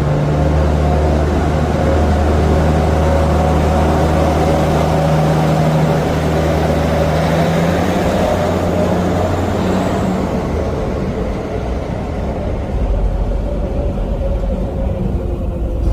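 Subway herbicide work train running on the track: a steady diesel locomotive engine drone over wheel and rail noise. The engine pitch drops about halfway through and the sound eases off, then a deeper rumble builds near the end.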